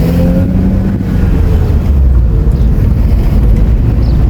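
Car running, with a steady low engine hum and road noise heard from inside the cabin.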